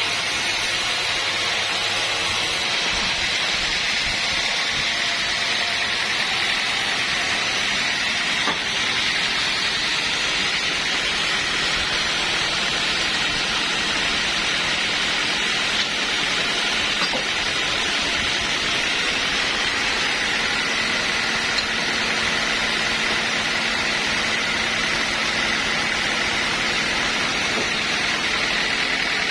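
Sawmill machinery running steadily, a continuous even noise with no breaks.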